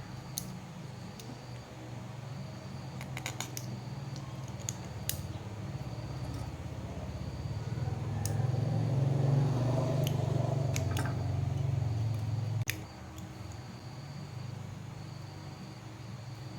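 A low electric hum that gets louder for a few seconds and then cuts off suddenly, with scattered sharp clicks and taps.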